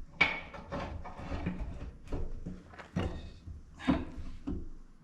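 Irregular metal clunks and knocks, the sharpest about three and four seconds in, as a hydraulic loader cylinder is shifted into line so its mounting pin can slide in.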